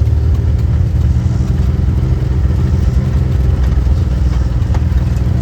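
Mahindra tractor's diesel engine running steadily at a constant pace, a loud low-pitched drone.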